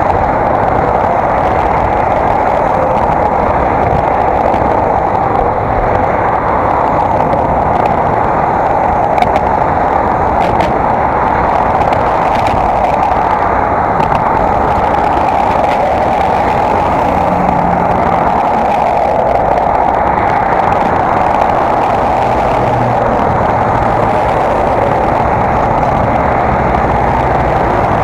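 Steady rushing wind and road noise on an action camera's microphone during a bicycle ride, with low engine hum from passing motor traffic now and then.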